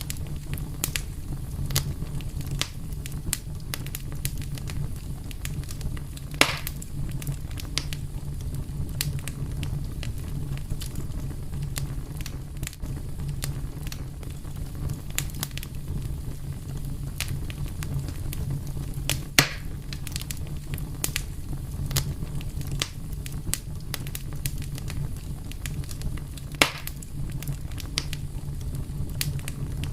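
Fire crackling over a steady low rumble, with many small ticks and three louder pops spread through.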